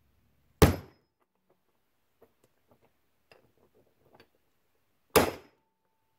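Two hammer blows on an 11 mm socket used as a drift to knock the old trunnion sleeve out of an LS rocker arm, about a second in and about five seconds in, with faint clicks of the parts being handled between them. The second blow leaves a short metallic ring.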